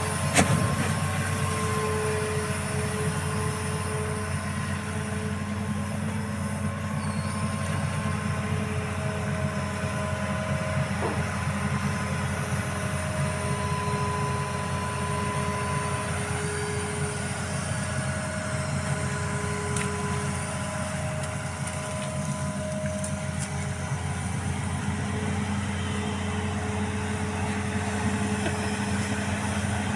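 Excavator's diesel engine running steadily under work, with higher whining tones that come and go. A single sharp knock about half a second in.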